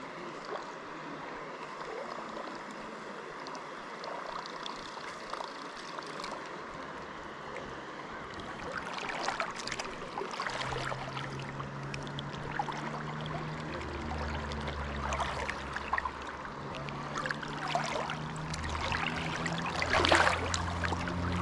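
Steady rush of flowing river water, with several splashes of water in the second half. Background music with low bass notes comes in about halfway through and runs on.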